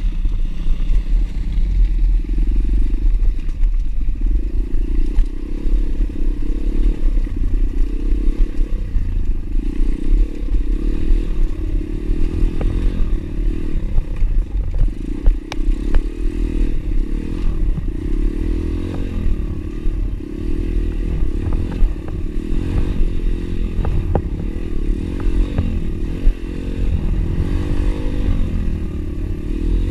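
Pit bike engine running under way, its pitch rising and falling as the throttle is opened and closed, with scattered short clicks throughout.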